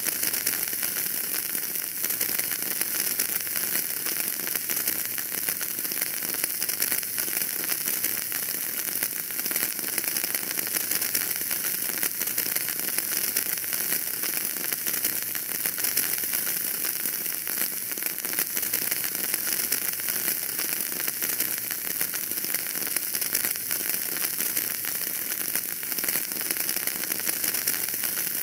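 Wood fire burning in a fireplace: a steady, dense crackle of many small pops over a hiss.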